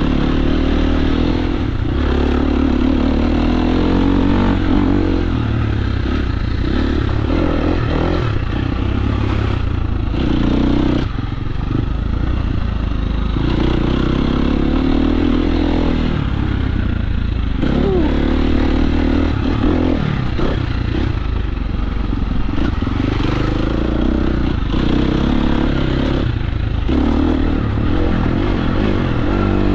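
KTM 350 SX-F dirt bike's single-cylinder four-stroke engine running under load while being ridden, its revs rising and falling continuously, with a brief drop in revs about eleven seconds in.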